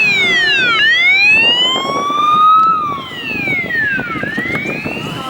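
Police car siren wailing: its pitch slides up for about two seconds, then down for about a second and a half, repeating, over a low vehicle rumble.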